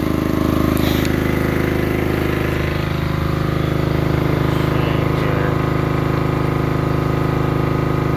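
Portable generator engine running steadily under load.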